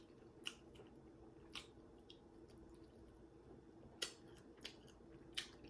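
Close-miked chewing of fried food: a handful of short, wet mouth clicks and soft crunches spaced a second or so apart, over a faint steady hum.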